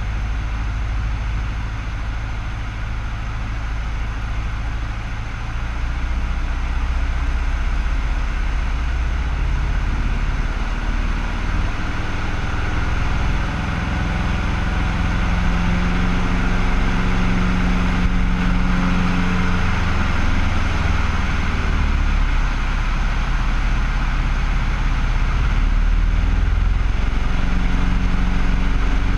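Cessna 150L's four-cylinder Continental O-200 engine and propeller running steadily with a noisy drone, its pitch shifting several times as the power setting changes.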